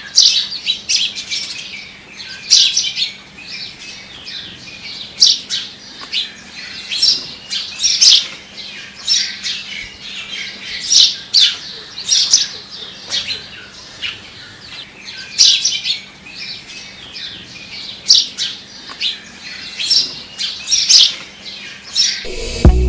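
Small birds chirping: short high calls coming in irregular clusters every second or so.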